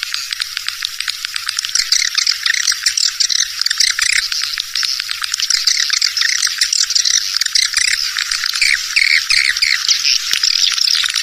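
A dense chorus of swiftlets twittering, with rapid buzzy chirps and clicks overlapping without a break. This is a swiftlet lure call, the kind played to draw swiftlets into a nesting house.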